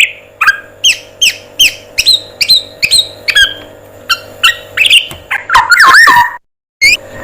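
Recorded birdsong from a black-naped oriole training track: a quick series of short, sharp chirps, about two to three a second, then louder whistled phrases that rise and fall near the end. The song is broken by a brief gap of dead silence, an edit splice, over a faint steady hum.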